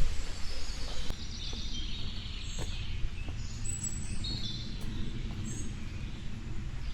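Small birds chirping in short high calls, over a steady low rumble.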